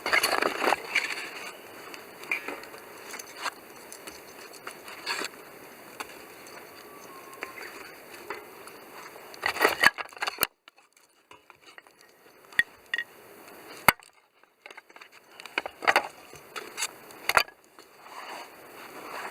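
Wood campfire crackling, with many scattered sharp pops that bunch up about halfway through and again near the end.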